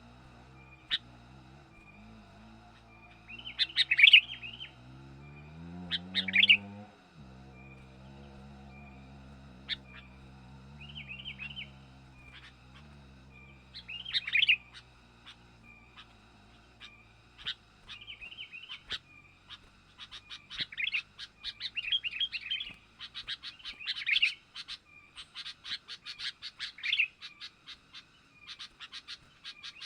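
Sooty-headed bulbuls (kutilang) calling in short bright chirping phrases, sparse at first and then rapid and almost continuous in the second half. A low motor hum under the first few seconds rises in pitch and cuts off suddenly about seven seconds in.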